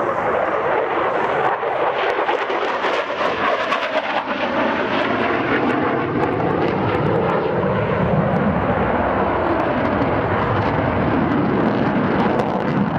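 F-16 fighter jet making a low pass, its jet engine a loud, steady roar that swells up in the first moment and holds, with a tone that slides lower as it goes by.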